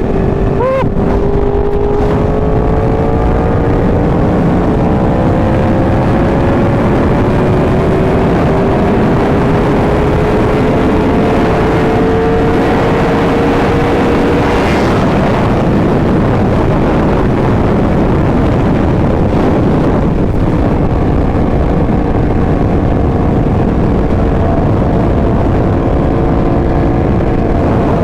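2018 Yamaha R1's crossplane inline-four running through a Competition Werkes exhaust at speed, its pitch climbing slowly through the first half and then holding steadier. Heavy wind rush on the helmet microphone runs under it.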